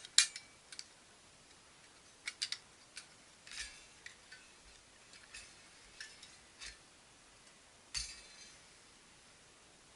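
Thin metal parts of a small backpacking wood stove clinking and tapping as they are handled. Scattered sharp clinks, the loudest just after the start and about eight seconds in, the last one ringing briefly.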